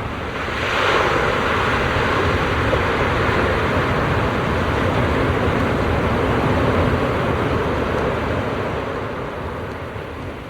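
A rush of surf and wind noise at the shore. It swells about a second in, holds steady, then eases off toward the end.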